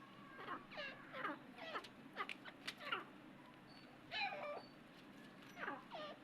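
Titar (partridge) giving a series of short calls, each sliding steeply down in pitch, about ten in quick irregular succession.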